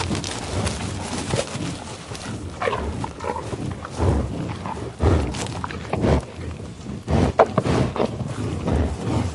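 A series of short animal calls, irregularly spaced, some rising and falling in pitch.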